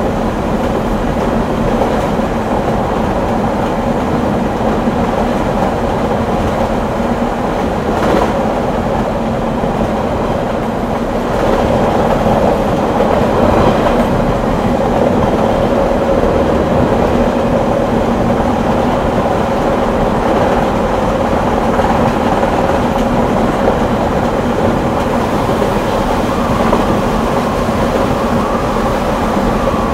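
Electric rack-railway train of the Wengernalp line running uphill, heard from on board: a steady rumble of wheels on rail with a constant motor hum, a single click about eight seconds in, and a little louder from about eleven seconds in.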